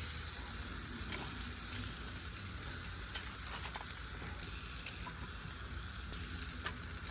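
Oiled, adobo-seasoned chicken thighs sizzling on a hot grill: a steady hiss with scattered small pops.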